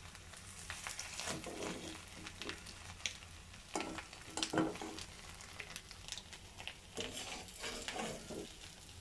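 Batter-coated boiled eggs frying in hot oil in a wok: a steady sizzle. A metal spatula scrapes and clicks against the pan at intervals as the pieces are turned and lifted out.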